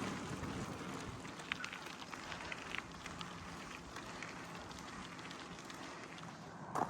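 Gravel bike tyres rolling over a dirt and gravel road, a steady rushing hiss with scattered small ticks of grit and stones, and one sharper knock near the end.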